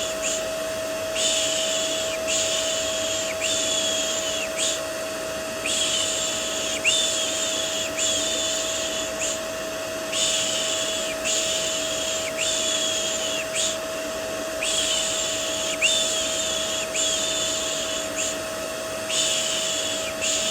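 Rhythmic "shh" shushing for soothing a baby, about one shush a second in runs of four with short pauses, over steady vacuum cleaner white noise with a constant motor whine.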